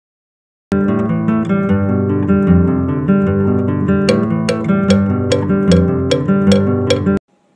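Acoustic guitar music, strummed, starting about a second in and cutting off abruptly near the end; in the second half sharp strokes fall about twice a second.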